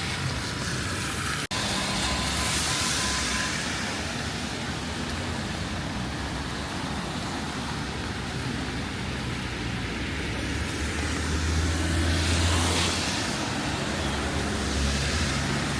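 Traffic on a wet city street at night: a steady hiss over a low engine rumble. A vehicle passes more loudly about eleven to thirteen seconds in.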